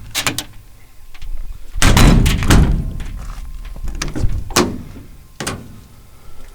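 Metal compartment doors on a Chevrolet 3500 bucket truck's utility body being opened and shut. Latch clicks and several bangs, the heaviest about two seconds in.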